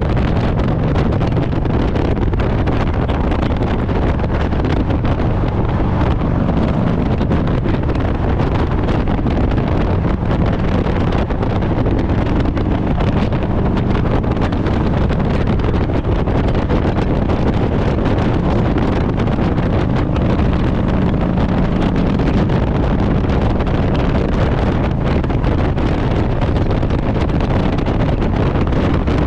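Harley-Davidson Road Glide's V-twin engine running at a steady cruise, with heavy wind rush on the microphone.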